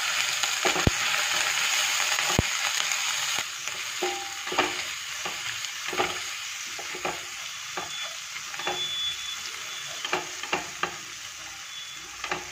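Garlic, green chillies and whole spices sizzling in hot ghee and oil in a stainless steel pan while a silicone spatula stirs them, with repeated short scraping strokes against the pan. The sizzle is loudest for the first three seconds or so, then drops, leaving the stirring strokes more distinct.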